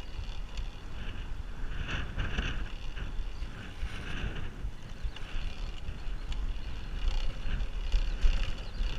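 Wind buffeting the microphone of a camera on a moving bicycle, a steady low rumble, with brief higher-pitched sounds coming and going every second or two.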